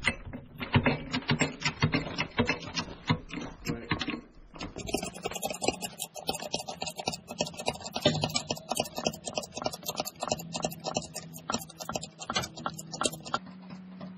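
Hydraulic jack being worked to lift the beam of a settling stone column: rapid, irregular clicking and clattering, sharper from about five seconds in, with a low steady hum in the second half.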